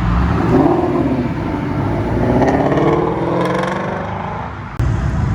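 A car engine revving and accelerating, its pitch climbing twice as it pulls away. Near the end it cuts off suddenly to a lower, steady engine rumble.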